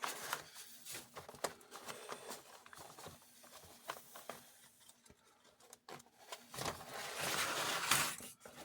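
Plastic toy parts being handled and fitted together: scattered light clicks and rubbing, with a longer scraping rustle near the end.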